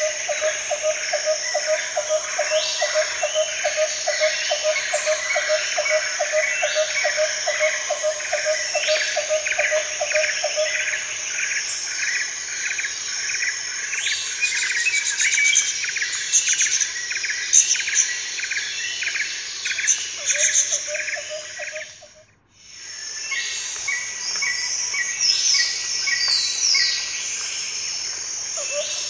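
Nature ambience of birds and insects: dense, rapidly repeated chirping calls over a pulsing low trill. The sound dips almost to silence for a moment about three-quarters of the way through, then resumes.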